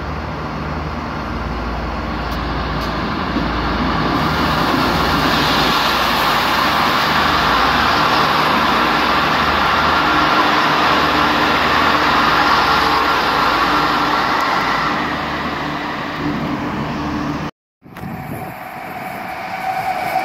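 Regional electric multiple-unit train pulling in and running slowly past the platform: rumbling wheels under steady whining tones from its traction equipment, louder as it draws level. After a sudden cut, an electric locomotive hauling passenger coaches approaches, growing louder.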